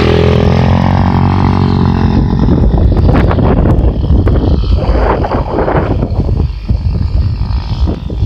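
125cc motocross bike engine revving hard, its pitch falling over the first second and then holding, before breaking into irregular bursts of throttle on and off.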